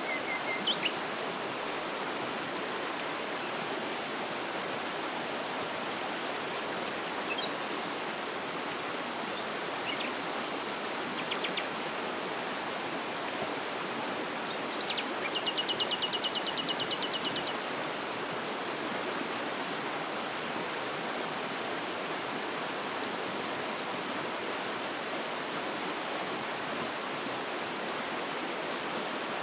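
Steady rushing of a waterfall, with a few short bird chirps and, about halfway through, a fast two-second bird trill of rapidly repeated high notes.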